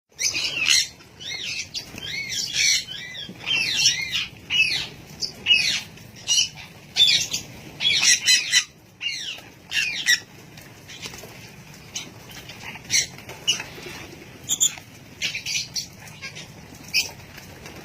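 Parrots squawking and chirping in quick, overlapping high calls. The calls come thick for the first ten seconds or so, then thin out to scattered squawks.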